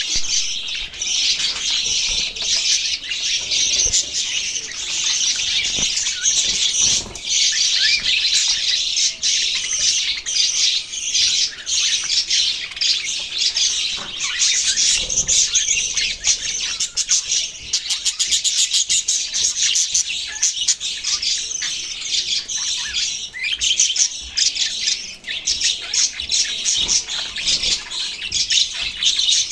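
A flock of budgerigars chattering and chirping continuously, many birds at once in a dense, high-pitched warble of rapid chirps and squawks.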